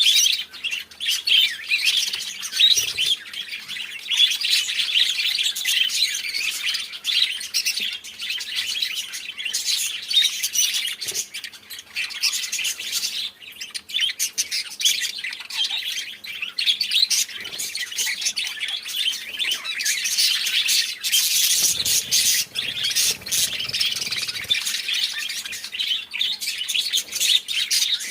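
A flock of budgerigars chattering, many quick chirps and squawks overlapping without a break.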